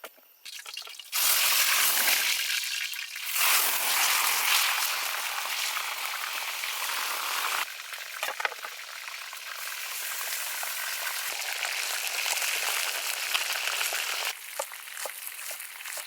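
Food sizzling as it fries in hot oil: a loud, even hiss that starts suddenly about a second in and changes level abruptly several times.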